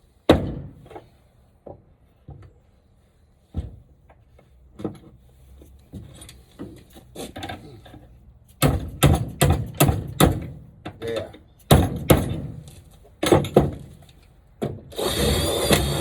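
Scattered knocks and clatter of wood and hardware being handled, busiest in the second half. About a second before the end a power drill starts running.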